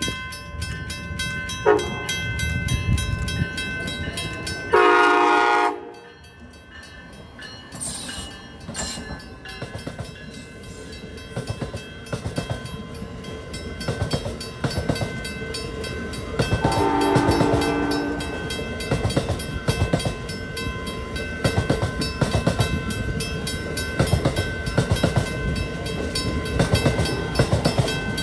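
Passenger train sounding its horn as it runs through a grade crossing: a short toot, then a loud blast of about a second, and another blast about halfway through. Between the blasts the wheels clack steadily over the rails as the cars roll past.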